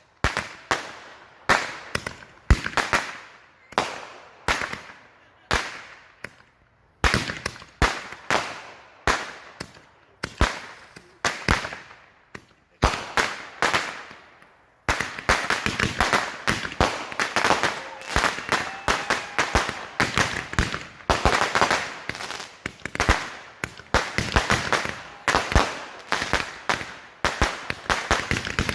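Fireworks going off in rapid runs of sharp bangs and reports, like strings of firecrackers. There is a short lull about 7 seconds in and another around 15 seconds, after which the bangs come thicker into an almost continuous crackling volley.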